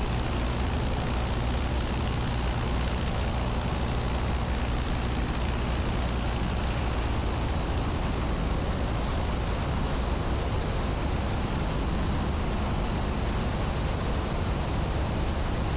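Piper Archer PA-28-180's four-cylinder Lycoming engine and propeller running steadily in flight, an even drone with no change in pitch.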